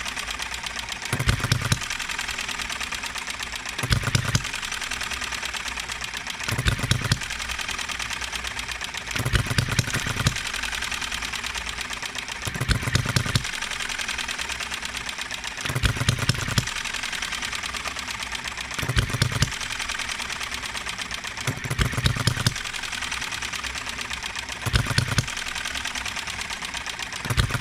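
Enjomor 6cc model hit-and-miss engine running on its governor: a short burst of firing strokes about every three seconds, with the fast steady clatter of the engine coasting on its flywheels in between. It is not yet hitting evenly and still hiccups once in a while.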